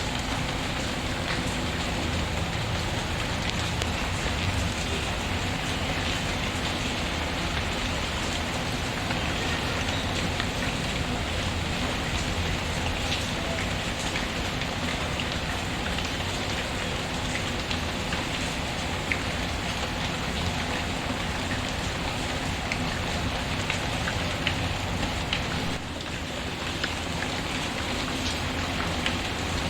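Steady rain falling on a surface, with scattered faint crackles from a wood fire. The rain briefly dips in level near the end.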